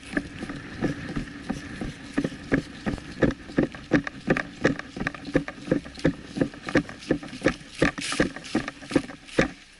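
Brisk footsteps on dry ground and vegetation, about three steps a second, with gear jostling at each step.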